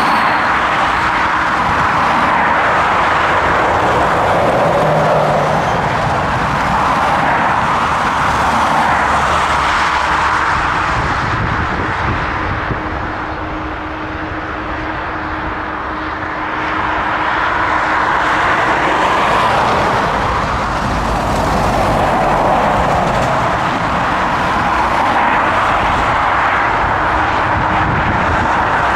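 Boeing 757 jet engine noise, loud and continuous; it eases off briefly around the middle and then builds again.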